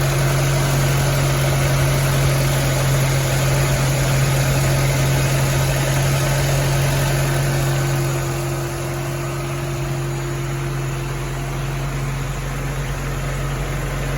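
1981 AMC Eagle SX/4 engine idling steadily with an even pitch. It drops a little in loudness about eight seconds in.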